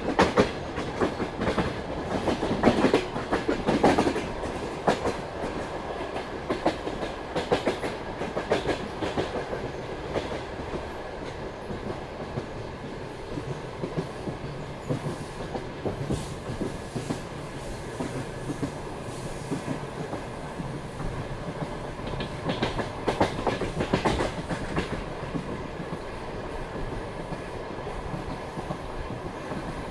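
Passenger train carriage wheels clacking over rail joints at running speed, over the steady rumble of the moving train. The clatter is loudest and busiest in the first few seconds and again a little past the middle.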